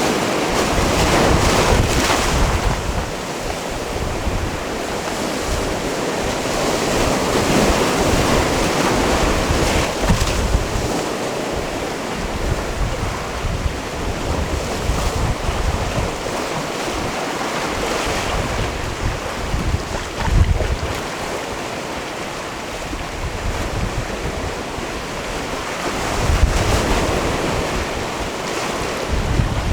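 Sea waves washing onto a rocky shore, a continuous wash that swells every several seconds as each wave comes in. Wind buffets the microphone with a gusty low rumble.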